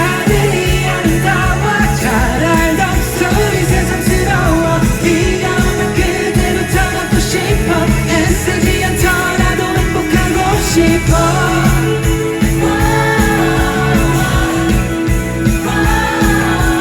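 Live rock band playing with a singer's voice over guitar, bass and drums.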